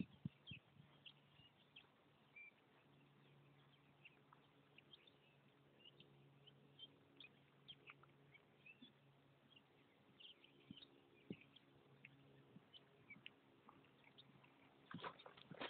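Near silence in an open field: faint, scattered bird chirps over a faint steady low hum. Near the end comes a short cluster of louder clicks and knocks.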